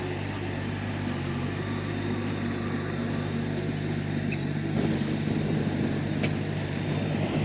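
Komatsu D31P bulldozer's diesel engine running steadily. About five seconds in, it grows louder and rougher.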